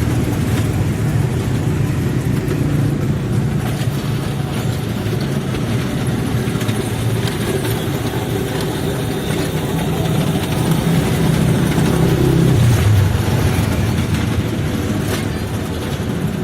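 Passenger train running along the track, heard from on board: a steady low running noise with occasional faint clicks, growing slightly louder about two-thirds of the way through.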